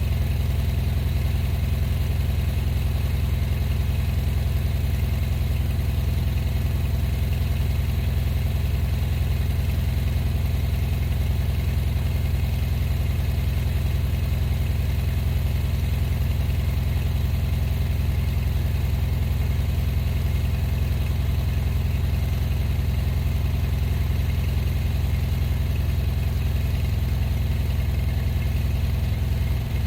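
Vehicle engine running steadily at an even, low drone, with no change in speed.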